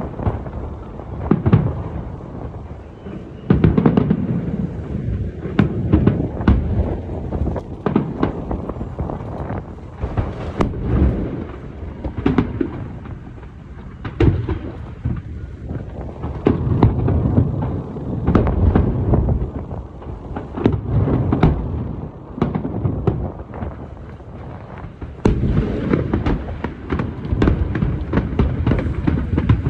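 Aerial fireworks shells bursting in rapid volleys: many sharp bangs over a continuous low rumble and echo, thickest in the last few seconds.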